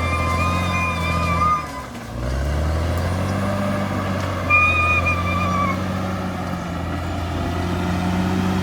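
Bulldozer diesel engine working under load, dropping off briefly about two seconds in and then picking back up. Two short, high, wavering squeals sound over it, one at the start and one about halfway.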